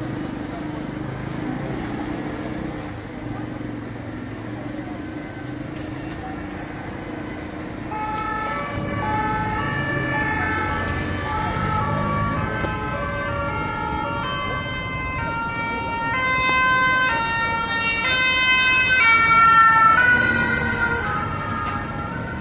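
Emergency vehicle's two-tone siren alternating between a high and a low note, coming in about a third of the way through and getting louder, loudest just before the end, over steady street traffic noise.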